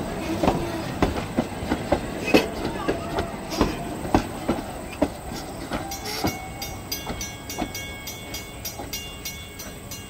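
Steam train's wheels clicking over the rail joints as it passes, the clicks coming more quickly and growing fainter as it moves away.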